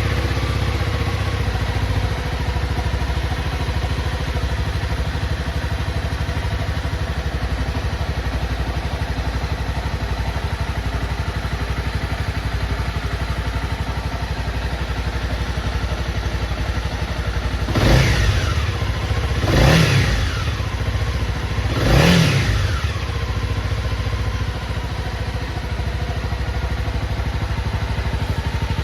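Honda CB250R's single-cylinder engine idling steadily, with three quick throttle blips past the middle, about two seconds apart, each revving up and dropping back to idle.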